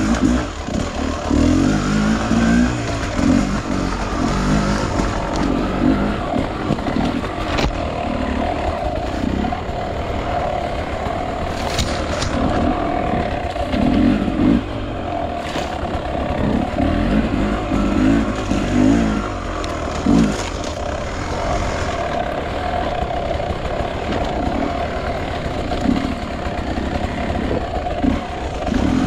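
Enduro dirt bike engine running while being ridden, the revs rising and falling through the throttle, with a few sharp knocks along the way.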